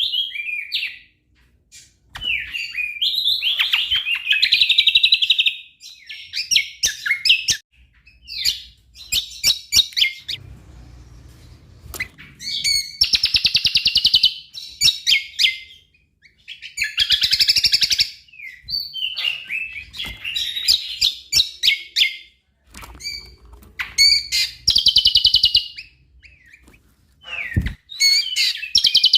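Cucak kombo singing loudly in a full, varied song: bursts of rapid trills, chatters and quick whistled notes, each phrase a second or few long with short pauses between.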